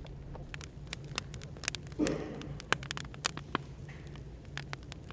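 Firewood crackling in a fire, with irregular sharp pops, over a low steady hum of café background noise. A soft thump about two seconds in.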